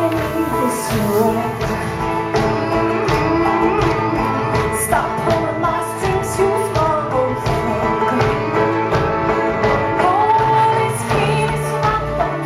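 Live all-female folk-pop band playing with a steady drum beat, women's voices singing over it.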